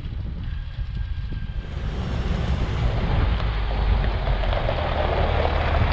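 International S1900 dump truck's DT466 diesel engine running with a steady low rumble. From about two seconds in, a rushing noise builds over it and grows louder.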